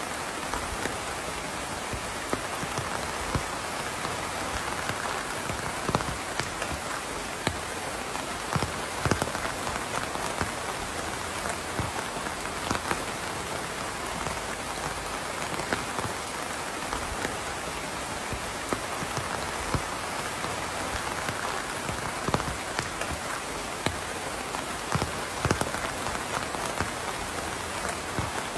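Steady rain falling, with scattered louder single drops striking a surface now and then.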